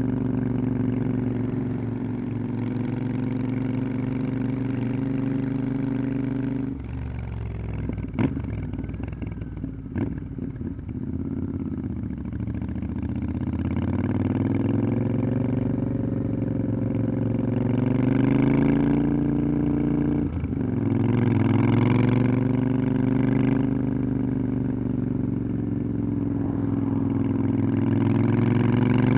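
Motorcycle engine under way: steady revs, then the throttle is closed about seven seconds in, with two sharp clicks as the revs fall, before the engine pulls up through the revs again. It drops briefly around twenty seconds in, as at a gear change, and climbs again near the end.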